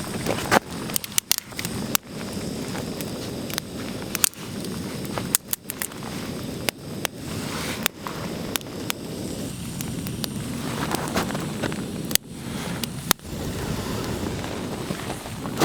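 Wood crackling and snapping in irregular sharp cracks over a steady hiss of rain.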